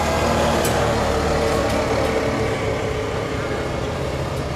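Chevrolet Camaro GT4.R race car's V8 idling, a steady, even note that holds its pitch.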